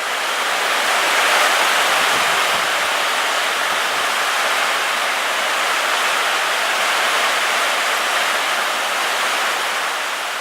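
Heavy tropical-storm rain pouring down in a dense, steady hiss, swelling in over the first second.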